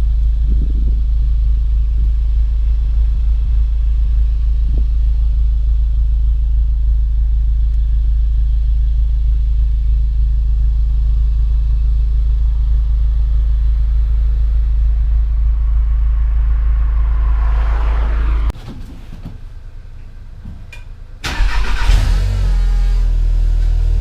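Volkswagen Golf Mk7 GTI's turbocharged four-cylinder engine and exhaust running with a steady deep drone, which stops abruptly about 18 seconds in. About three seconds later the engine starts with a brief loud flare and settles back to a steady low idle.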